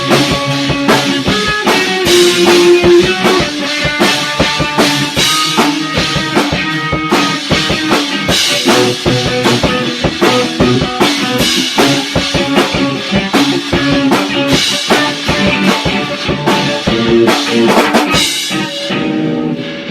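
Rock band playing live: a drum kit with bass drum and snare hits driving the beat under guitar. The playing dips briefly right at the end.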